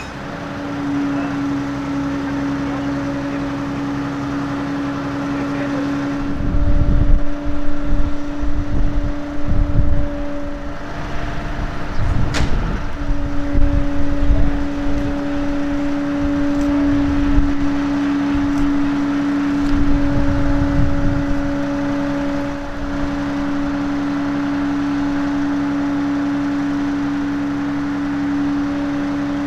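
A machine's steady, even drone with a constant humming pitch, like an engine or motor running at fixed speed. Low rumbling surges come and go over it, the longest from about six to eleven seconds in.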